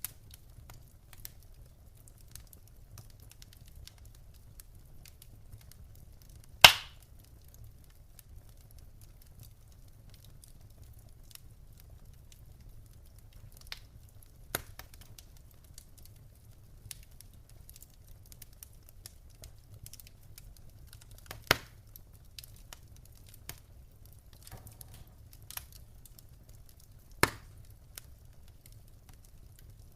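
Wood fire in a fireplace crackling softly over a low steady rumble, with a few sharp pops spaced several seconds apart, the loudest about a quarter of the way in.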